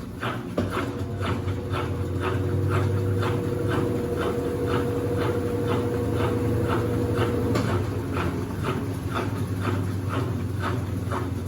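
Consul CWC08 8 kg washing machine running a wash with a single-bed bedspread inside: a steady low hum with a regular swishing beat about two and a half times a second, and a motor whine that stops about eight seconds in.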